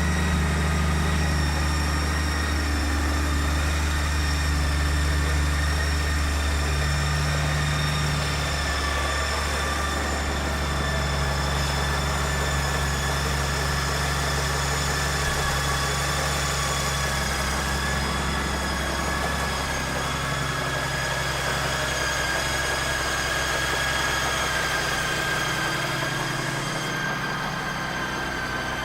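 Honda Gold Wing 1800's flat-six engine idling steadily, with a faint thin high whine above the low running sound.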